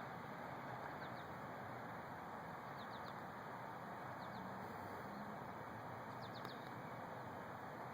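Faint bird chirps, small groups of short high notes about a second, three seconds and six and a half seconds in, over a steady outdoor background hiss.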